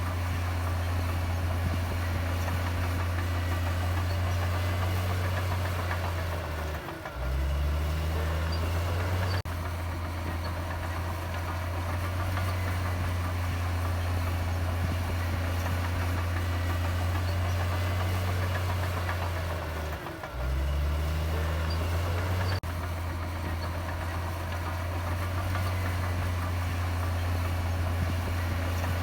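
Heavy diesel engine of earthmoving machinery running with a steady low drone. Twice, about a third of the way in and again about two thirds in, its note briefly dips and then climbs back up.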